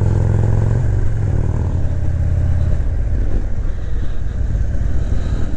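Harley-Davidson V-twin motorcycle engine running under way. The steady engine note drops about a second in, then turns rougher and less even in the second half.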